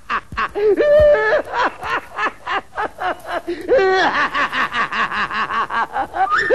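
Laughter: rapid, high-pitched pulses of about four to five a second, rising and falling in pitch.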